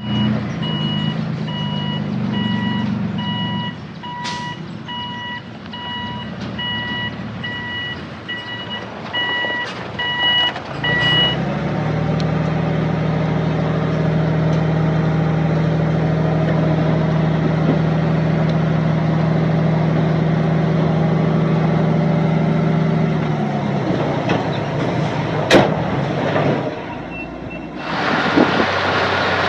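Dump truck reversing with its back-up alarm beeping steadily over the engine. The alarm then stops and the diesel engine runs harder and steady for about twelve seconds before dropping back. Near the end a broad rushing noise starts.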